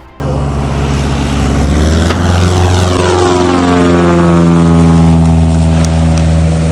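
Propeller airplane towing a banner, flying past low and loud; its engine drone starts abruptly and drops in pitch as it passes, then holds steady.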